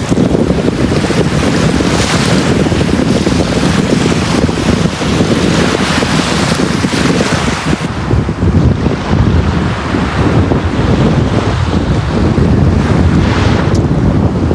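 Sea waves washing onto a beach, with strong wind buffeting the microphone as a heavy, fluttering rumble under the surf hiss. The highest part of the hiss drops away abruptly about eight seconds in.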